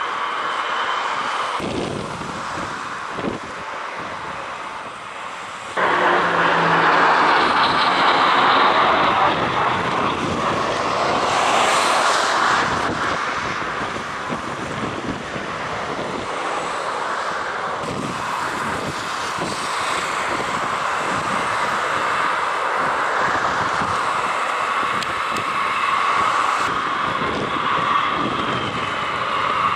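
Military aircraft engines running loud, with wind buffeting the microphone; the engine sound jumps abruptly louder about six seconds in and stays loud.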